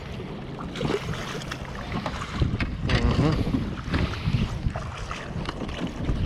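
Strong wind buffeting the microphone, with choppy water slapping and splashing against a fishing kayak's hull.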